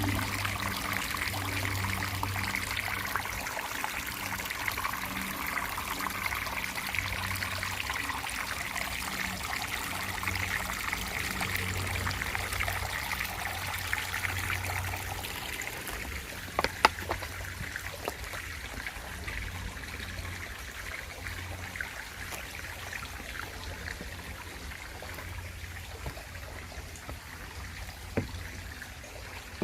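Running water trickling steadily, easing a little about halfway through, with a few sharp clicks partway through.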